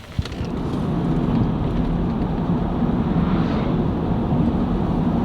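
A Mitsubishi Delica van driving on the road: a steady rumble of engine and road noise that builds over the first second, then holds.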